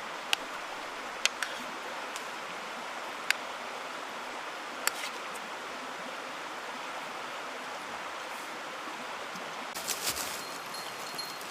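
Steady rush of a mountain stream, with four sharp clicks in the first five seconds and a few more near the end.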